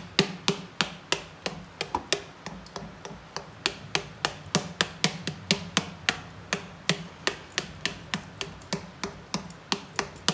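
A fork pricking pizza dough spread in a pan, its tines tapping quickly and repeatedly against the pan beneath, about three or four sharp taps a second.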